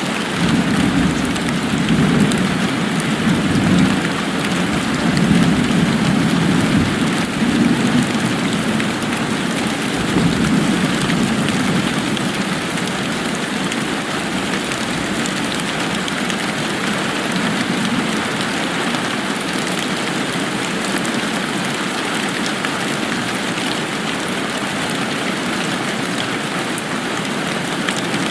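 Steady rain falling as an even hiss, with a low rolling rumble that swells and fades through the first ten seconds or so, then eases.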